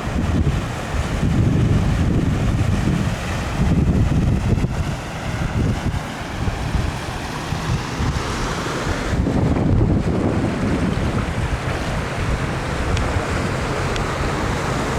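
Tropical-storm wind gusting across the microphone in heavy, rumbling surges over a steady rushing noise.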